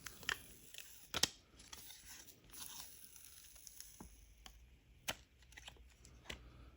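Old polarizing film being peeled off an LCD panel's glass: faint tearing and crinkling of the adhesive-backed plastic sheet, with scattered small clicks.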